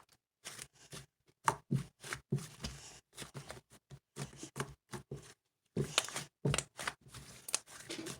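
Slime being squished and pressed by hand, making irregular sticky clicks and crackling pops, a few per second.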